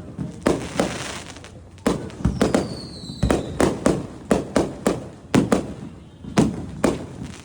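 Fireworks going off in rapid succession: sharp bangs, about three a second, each with a short echo. A crackling spell comes about a second in, and a falling whistle comes around three seconds in.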